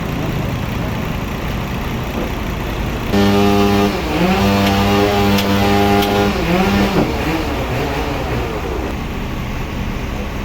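Sawmill engine running steadily. About three seconds in, a loud, even hum joins it for around four seconds and briefly sags in pitch twice, as a machine does when it takes load.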